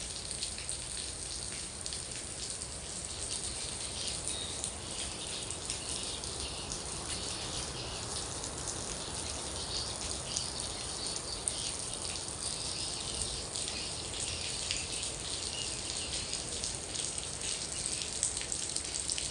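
Heavy rain from a rainstorm falling steadily: a dense, even hiss with many small drop hits in it.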